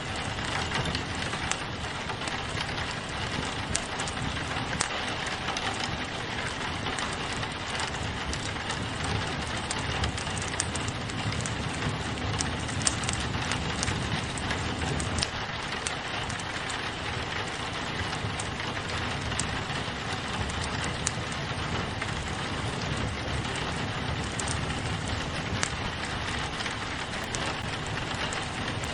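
Steady rain pattering on a window, mixed with a fireplace fire crackling in scattered sharp pops.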